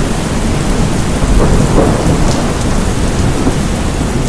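Heavy rain pouring, with a continuous low rumble of thunder.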